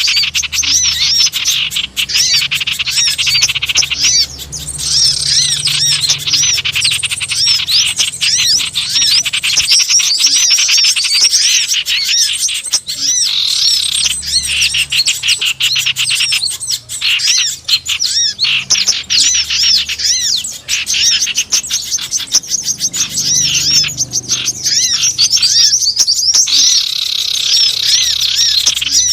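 Dense, noisy chorus of many small wild birds chirping rapidly and shrilly without pause: a bird-lure call recording played to draw small birds in.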